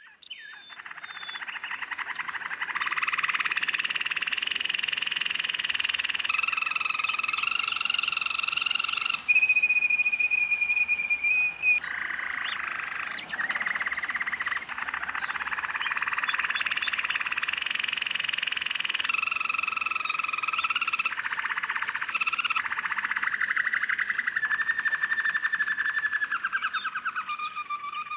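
Canary singing a long, unbroken song of rapid rolling trills, switching to a new phrase every few seconds, with a slowly falling roll near the end.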